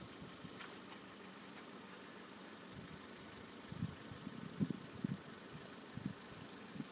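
Faint, steady idle of a car engine, with a few soft, low thumps in the second half.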